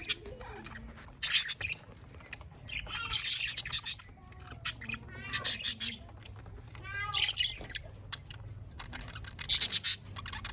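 Pet budgerigars chirping and squawking in short, loud, high-pitched bursts every second or two, with softer warbling calls between them.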